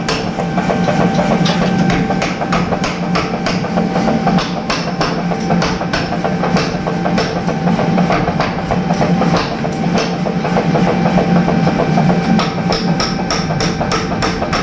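A 75 kg mechanical power hammer striking repeatedly, about two to three blows a second, over a steady machine hum, with music mixed in.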